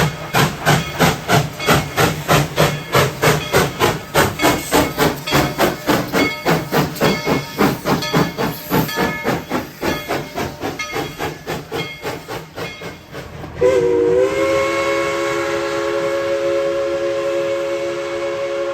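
Steam locomotive No. 190 working hard, its exhaust chuffing in quick even beats, about three a second, that fade over the first thirteen seconds. Then its whistle sounds, a steady chord of several tones that wavers briefly at the start and holds long.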